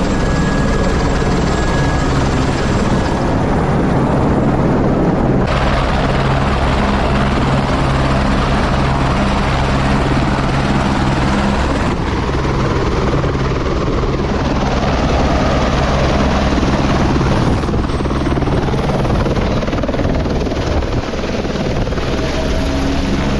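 Helicopter running loud and steady, its engine and rotor giving a constant low drone.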